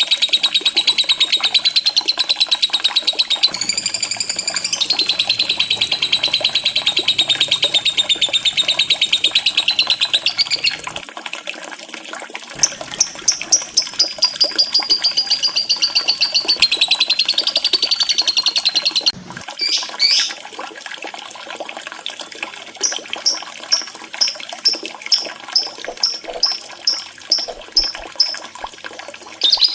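Lovebird chattering in long, fast, high-pitched trills that stop abruptly about two-thirds of the way through, then a run of separate shrill chirps at about two a second. Running water trickles steadily underneath throughout.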